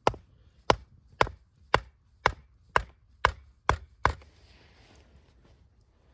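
Nine sharp chopping strikes of a blade into wood, about two a second, that stop about four seconds in.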